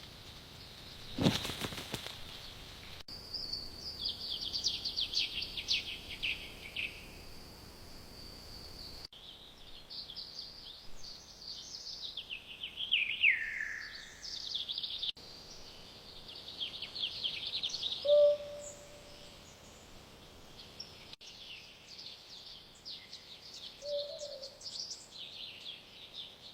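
Small songbirds singing and chirping in quick, high, repeated phrases, some notes sliding downward. About a second in there is a brief, loud noise that covers all pitches.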